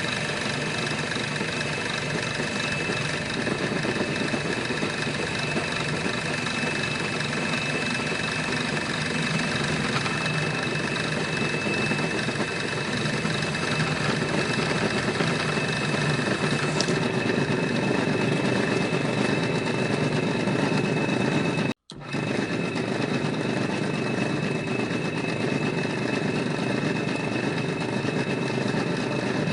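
Small electric motor of a DIY model machine running steadily with a constant high whine; the sound breaks off for an instant about twenty-two seconds in.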